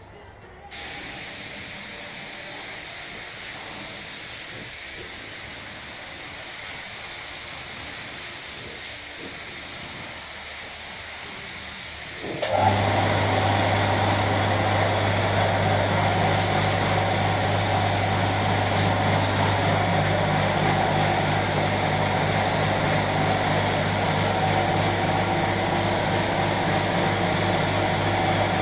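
Compressed-air paint spray gun hissing steadily. About twelve seconds in, an electric air compressor starts with a sudden jump in level and runs on with a steady low hum under the hiss.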